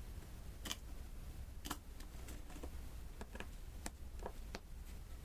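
Light, irregular clicks and taps, about nine in a few seconds, as a diamond-painting pen picks up resin drills and presses them onto the sticky canvas.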